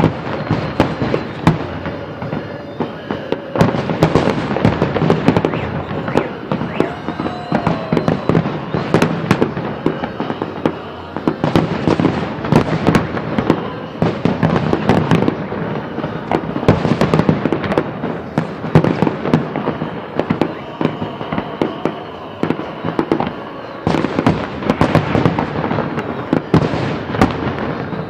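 Fireworks salute: dense, rapid bangs and crackling of shells bursting overhead, with short lulls about three seconds in and again near the end.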